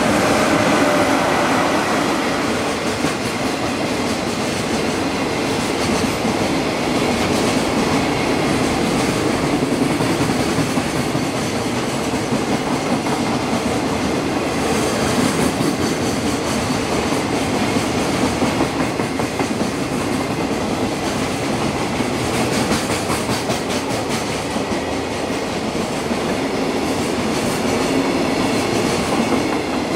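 A freight train hauled by an EF66 electric locomotive passes slowly close by. It runs loud and steady, with the wheels clacking rhythmically over the rail joints, loudest about a second in.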